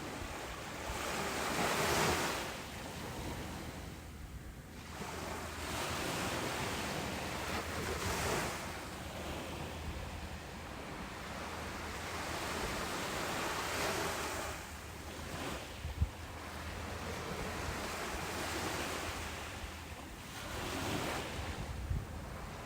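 Ocean surf breaking on a beach, each wave swelling and washing out about every six seconds, over a steady low wind rumble on the microphone. A short thump comes about two-thirds of the way through.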